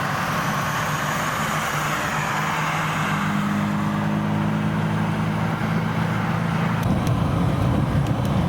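Car engine hum and road noise while driving at speed. A new engine note comes in about three seconds in, and a deeper rumble grows about seven seconds in.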